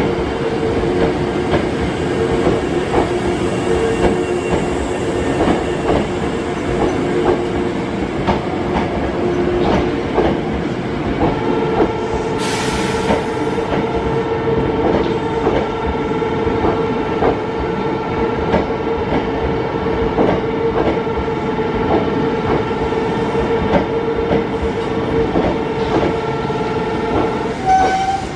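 Hankyu 6000-series electric train rolling slowly along the platform track, its wheels clicking over rail joints under a steady whine. There is a brief hiss about halfway through.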